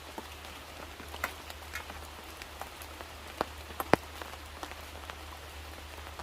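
Steady rain falling, with separate drops hitting close by every so often; one sharp drop a little before four seconds in is the loudest.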